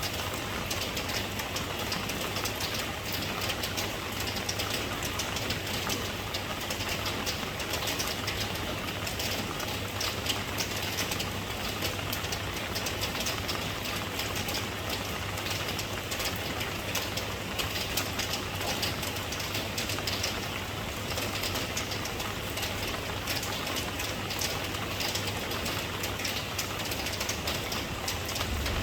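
Steady rain falling: a constant hiss of dense, fine drop patter, with a faint low rumble underneath.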